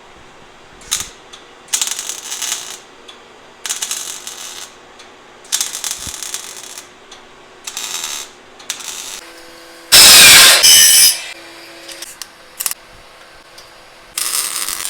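A ratchet wrench worked in short bursts of strokes, with a much louder, harsher burst of mechanical noise about two-thirds of the way through: bolts being run on an exhaust system.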